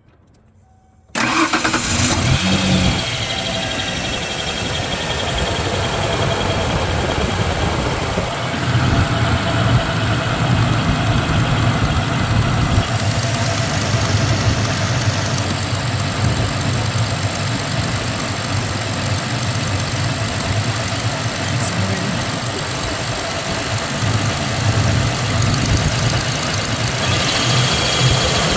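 1993 Ford Ranger's 3.0 V6 engine comes in suddenly about a second in and then idles steadily; the engine has a misfire that the owner is trying to trace to one cylinder.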